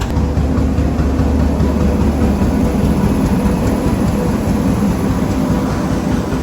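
Train running at a railway station, a loud steady rumble whose deepest hum eases off after about two and a half seconds.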